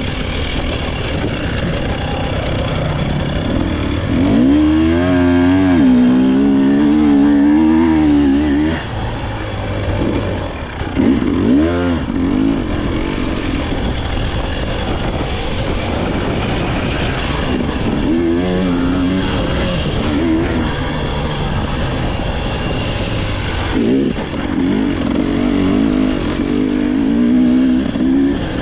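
Dirt bike engine revving up and easing off again and again as it is ridden, its pitch wavering quickly with the throttle; it is loudest for a few seconds about four seconds in and again near the end.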